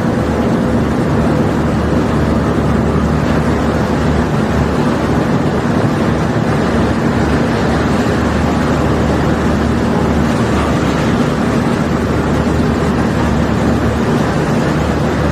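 Barge-unloading machinery running steadily, an engine hum under a constant rushing noise, as a cargo of limestone is discharged.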